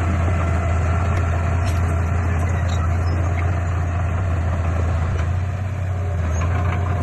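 Heavy diesel engine of earth-moving equipment running steadily with a deep, even hum, easing slightly about five and a half seconds in.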